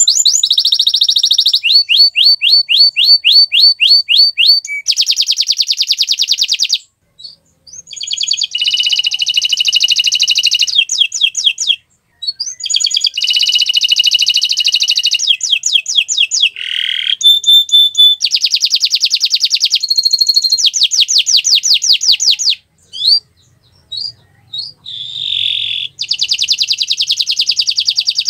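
Domestic canary singing a long song of fast trills: each run repeats one short high note rapidly, then switches to a new note type every second or two. There are brief pauses about a third and halfway through, and another near the end.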